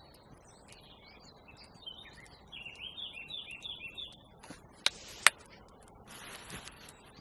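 A small songbird singing a run of quick, repeated chirping notes. A bit later come two sharp clicks about half a second apart, the loudest sounds, then a brief rustling scrape.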